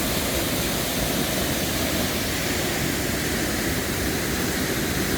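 Waterfall rushing steadily, a heavy, full flow swollen by days of rain.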